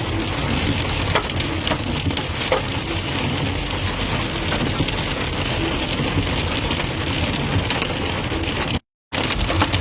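Heavy rain mixed with hail: a steady dense hiss with many sharp ticks of hailstones striking. The sound cuts out completely for a moment near the end, then resumes.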